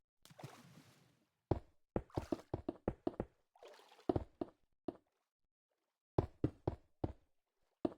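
A series of sharp knocks and cracks, about a dozen, irregularly spaced and bunched near the start and the middle. They are broken by two short bursts of rustling, about half a second in and about three and a half seconds in.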